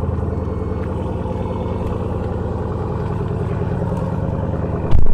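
Dodge Durango SRT's HEMI V8 exhaust idling steadily shortly after a cold start, with an even, pulsing burble picked up close to the tailpipe. A short, loud knock about five seconds in.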